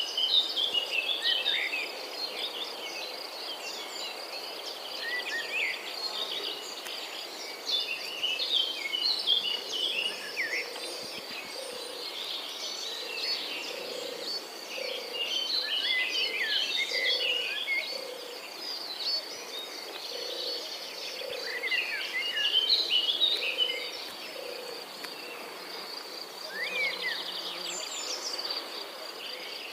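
Outdoor natural ambience: a steady high insect trill with many small birds chirping over it, the chirping busiest about halfway through and again a little later, and soft low notes repeating underneath.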